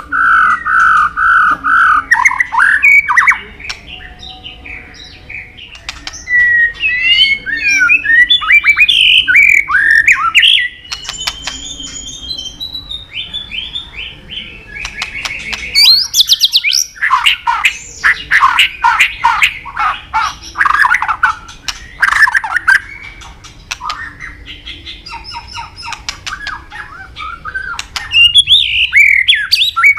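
A captive white-rumped shama (murai batu) singing a loud, full song packed with mimicked phrases: rapid repeated notes, whistles and fast chattering runs. The song comes in bursts with softer passages about four seconds in and again some seconds before the end.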